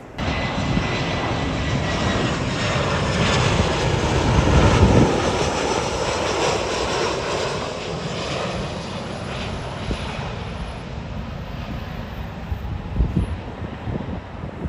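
Jet airliner's engines passing close by, loudest about five seconds in and then slowly fading, with a thin high whine in the first two seconds.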